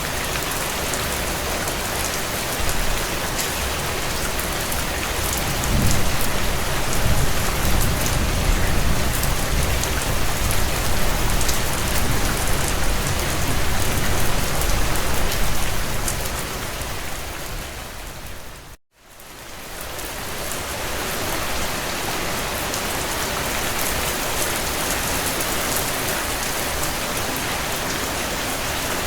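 Steady heavy rain on window glass with fine crackling specks over it. A low rumble swells in the middle. About two-thirds of the way through, the sound fades to a moment of silence, then fades back in.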